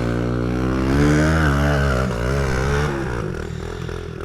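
Mini bike's small single-cylinder engine revving up over about a second, held at high revs with some wavering, then easing off and fading near the end.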